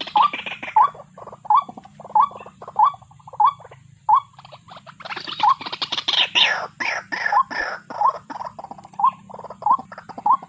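White-breasted waterhen calling: a run of short, rising notes about twice a second, interspersed with harsh, rasping calls that grow loudest around the middle.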